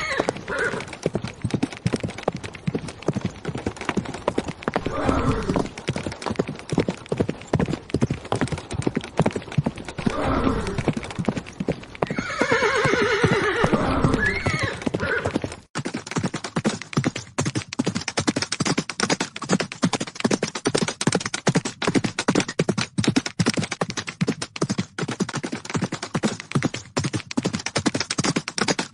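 Horses galloping, with rapid drumming hoofbeats and several whinnies in the first half. About halfway through the sound cuts suddenly to a denser, even run of hoofbeats.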